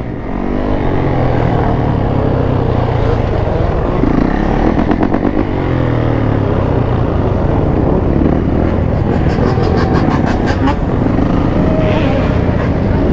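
Engines of many dirt bikes and motorcycles running and riding past, their pitch rising and falling as riders rev.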